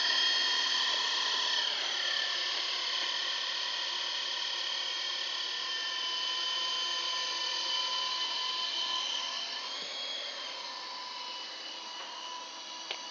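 Small electric radio-controlled helicopter's motor and rotor whining steadily. The pitch drops about two seconds in, lifts briefly near ten seconds, and the sound grows fainter toward the end.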